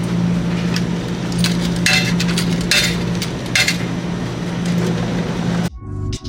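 A steady low hum over a noisy background, with a few light clinks, like glass or dishes, about two, three and three and a half seconds in. Electronic music with a drum-machine beat cuts in near the end.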